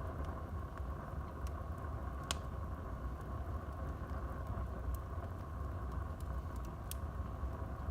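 Wood fire burning in a fireplace: a steady low rumble of flames with scattered sharp crackles and pops, the clearest about two seconds in and others near five and seven seconds.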